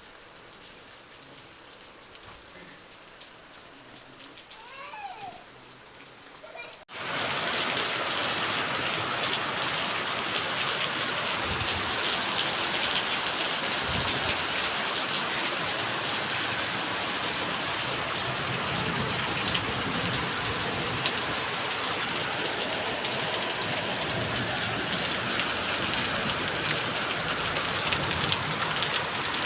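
Steady rain falling. It is fainter at first, with a few brief chirps; about seven seconds in the sound cuts abruptly to much louder, dense rain.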